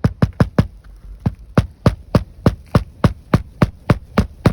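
Nails being driven into asphalt roof shingles: a steady run of sharp strikes, four quick ones at first, then about three a second.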